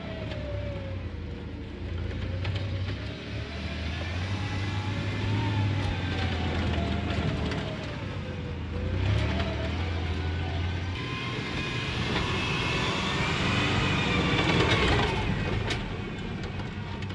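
Stripped-down 1995 Chevy Silverado pickup's engine revving up and down while driven off-road. Its pitch dips about nine seconds in, then climbs to its highest before falling away near the end, with scattered knocks and rattles over it.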